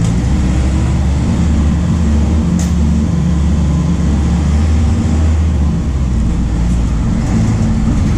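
MAN D0834 four-cylinder diesel engine of a VW 17.230 OD bus running with a steady, low engine note. There is one short click about two and a half seconds in.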